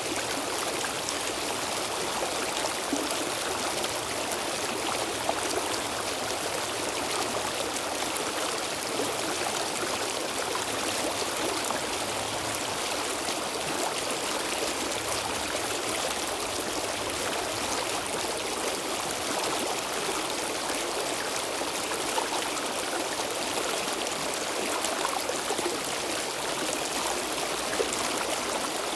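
Stream water flowing and trickling steadily over rocks, a constant rushing with small splashes and gurgles.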